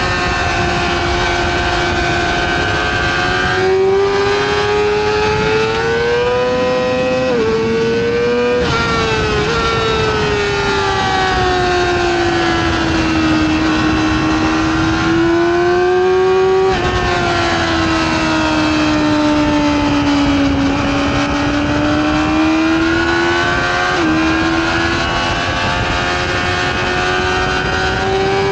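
Yamaha R6's inline-four engine at high revs, heard from on board at speed. The pitch sinks and climbs with the throttle through the corners and jumps suddenly at gear changes, over steady wind noise.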